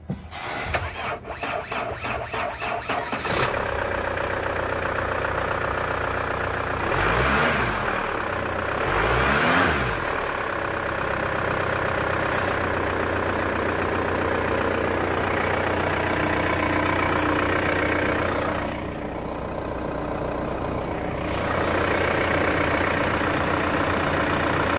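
Holden Captiva's turbo engine being cranked by the starter for about three seconds, then catching and settling into a steady idle. It is revved up and back down twice, about a third of the way through, then idles on.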